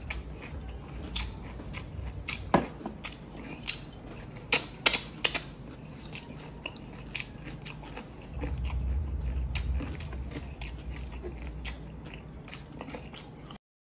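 Close-up chewing of chicken adobo drumstick meat, with many irregular wet mouth clicks over a low rumble. The sound cuts off abruptly near the end.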